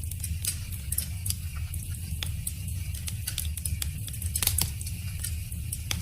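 Wood fire crackling: irregular snaps and pops over a steady low rumble, with one sharper pop about four and a half seconds in.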